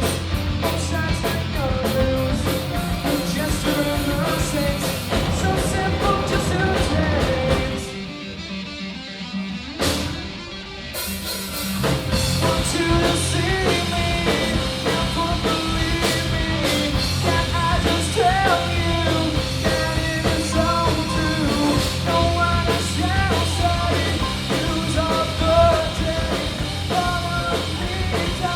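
Live four-piece rock band of keyboards, bass, electric guitar and drums playing loudly. About eight seconds in, the bass and drums drop out for a few seconds, leaving a quieter break with one sharp hit, before the full band comes back in.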